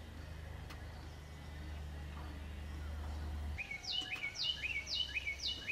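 A songbird singing a quick run of repeated down-slurred whistles, about two a second, starting a little past halfway. Under it is a low steady hum that breaks off for about a second, about three and a half seconds in.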